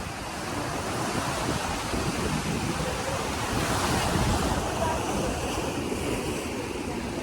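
Pacific Ocean surf washing on the shore, with wind buffeting the microphone.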